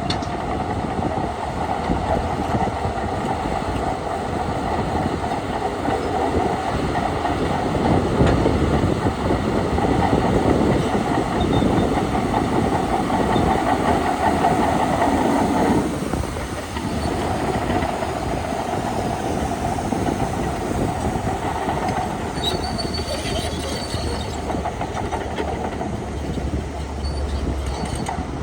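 Crawler bulldozer running, its diesel engine working and its steel tracks clattering steadily. The sound eases briefly about sixteen seconds in.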